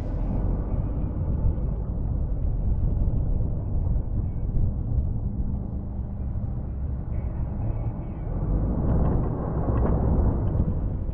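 Snow-plow truck's engine running steadily, with a louder, noisier swell about nine seconds in.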